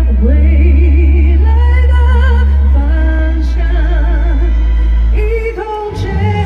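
Live pop ballad: a woman sings long notes with wide vibrato over a heavy, steady bass backing. About five and a half seconds in, the bass drops out and the accompaniment changes.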